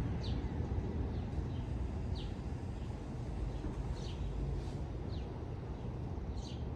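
Birds chirping: short, high calls that sweep downward, about one a second, over a steady low rumble.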